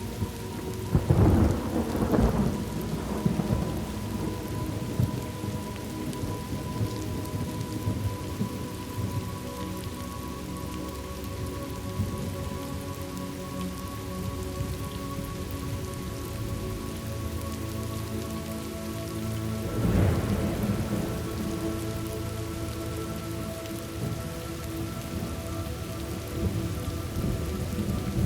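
Thunderstorm ambience: steady rain with two rolls of thunder, one about a second in and another about two-thirds of the way through.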